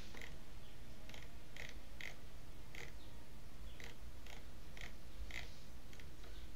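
A bird chirping in short, repeated calls at irregular intervals, over a low steady hum.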